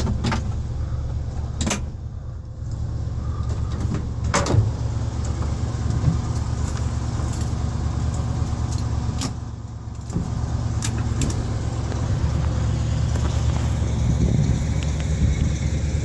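Ford 302 V8 idling steadily in a 1973 F100 pickup, with a few sharp clicks and knocks over it.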